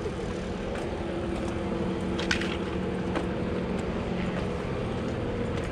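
Car engine running steadily with a low hum and road noise, a few faint clicks over it.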